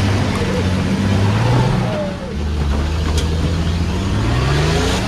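Off-road 4x4 engine running under load, its revs climbing, easing off about two seconds in, then climbing again near the end.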